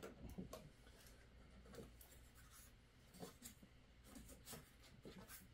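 Faint, scattered rustles, scrapes and light taps of packaging being handled.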